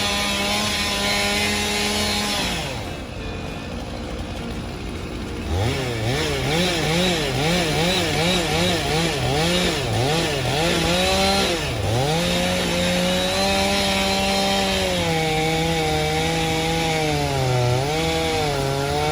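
Stihl two-stroke chainsaw running at high speed. Its note drops away about two and a half seconds in. From about six seconds in the throttle is blipped rapidly up and down for several seconds. The saw then holds steady at full speed, dipping briefly near the end as it bogs in the cut.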